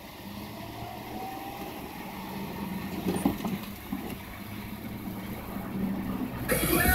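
Car driving on a snowy road: a steady engine and road hum that slowly grows louder, with a few knocks about halfway and a loud rushing noise near the end that cuts off suddenly.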